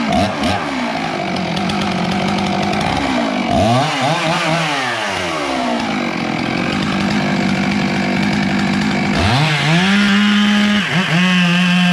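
Two-stroke chainsaw running at high revs, cutting melaleuca wood. The revs fall away and climb back up a few seconds in, then build again from low near the end, with one more brief dip.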